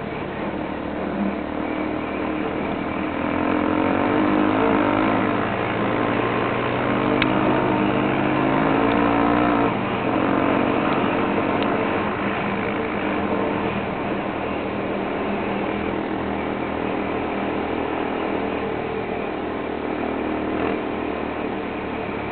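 Motorcycle engines running, louder and with wavering revs for several seconds in the first half, then settling to a steadier running sound.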